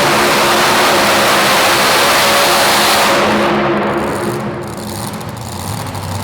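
Super modified two-wheel-drive pulling truck's engine running flat out under load. About three seconds in it comes off the throttle and drops to a lower rumble.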